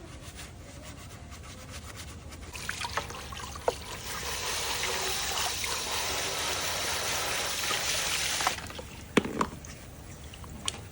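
A steady hiss lasting about four seconds that cuts off suddenly, with scattered clicks before it and a couple of sharp knocks after.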